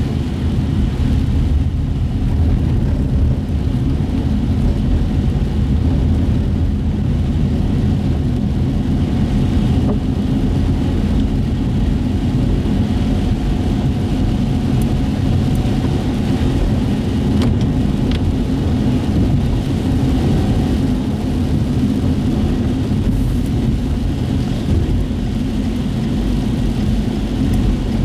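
Interior noise of a car being driven on wet city streets: a steady low rumble of engine and tyres on the wet road.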